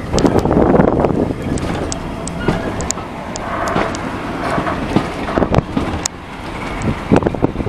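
Running noise of a moving train heard from its window, with wind buffeting the microphone in uneven gusts and short sharp clicks scattered through it.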